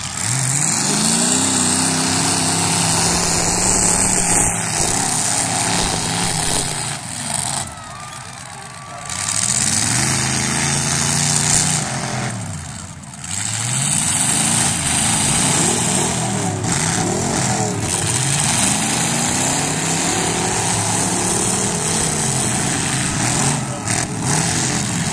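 Demolition derby cars' engines revving hard, rising and falling in pitch over and over as the cars accelerate and back up. The revving drops away briefly twice, about eight and thirteen seconds in.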